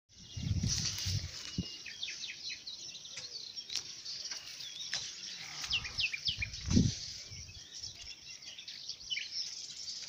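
Small birds chirping outdoors: many short, quick calls that sweep downward, going on throughout. Low thumps of handling or wind on the microphone come in the first second and again around the middle, the loudest just before 7 seconds.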